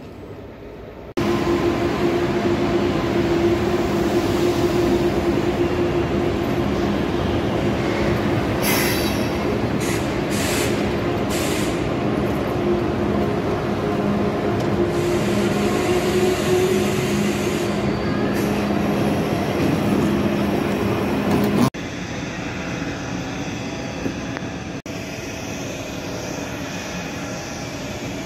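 ICE high-speed train at a station platform, humming steadily with two held tones, with a few short high hisses about nine to twelve seconds in. The sound changes abruptly twice near the end to a quieter, steady train rumble.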